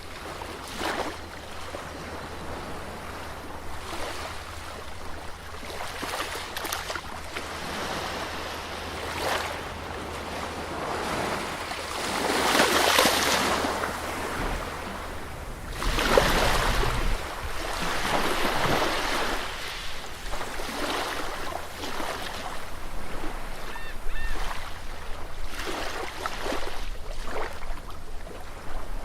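Sea waves breaking on a beach: a continuous wash of surf that swells and falls with each wave, the two biggest breaking about twelve and sixteen seconds in.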